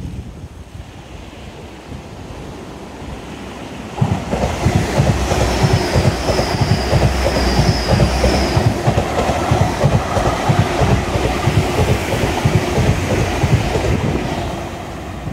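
A train passing close by, its wheels clattering over the rails. It comes in suddenly about four seconds in, with a high wheel squeal for a few seconds, and fades near the end.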